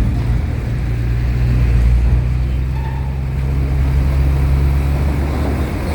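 Large diesel engine running steadily, a deep low rumble.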